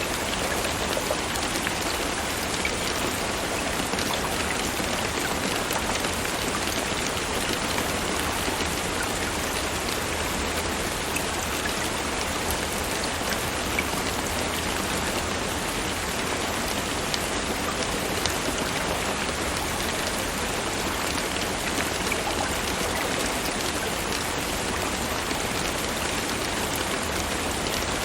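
Steady rain falling, an even hiss with many small droplet ticks.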